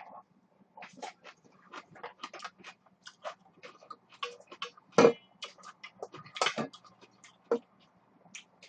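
Close-miked eating sounds: a person chewing and eating instant ramen with rice, with many irregular wet clicks and small taps and one louder knock about five seconds in.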